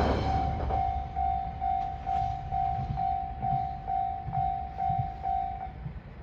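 Level-crossing warning bell ringing a single repeated tone about twice a second, stopping shortly before the end, over the low rumble of a diesel railcar fading away.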